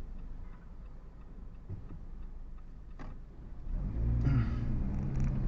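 Car engine and road noise heard from inside the cabin: a low, steady rumble, then the engine note grows louder as the car accelerates about four seconds in.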